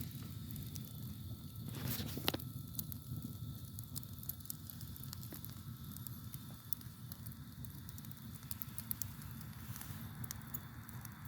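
Campfire crackling with many small sharp pops over a low steady rumble of burning, with a louder hiss and a sharp pop about two seconds in. Crickets chirp faintly in a steady high trill behind it.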